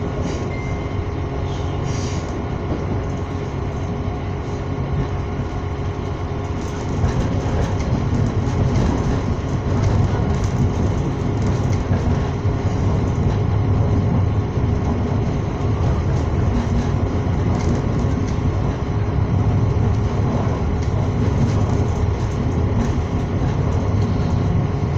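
Passenger train running at speed, heard from inside the carriage: a steady low rumble of wheels on the rails, which grows louder about seven seconds in.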